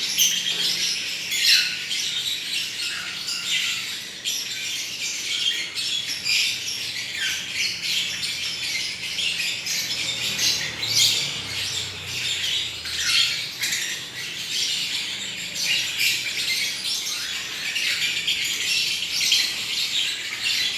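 Lovebirds chattering with a steady stream of shrill chirps and squawks.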